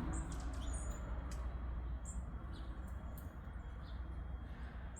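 Small songbirds in a tree chirping: scattered short, high chirps over a steady low rumble.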